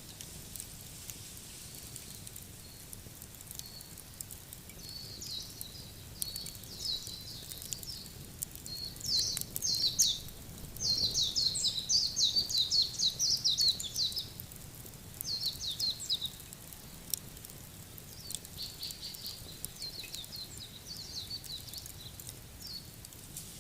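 A small songbird singing phrases of rapid high chirps, loudest about halfway through, over a low steady outdoor hiss with a few faint scattered clicks.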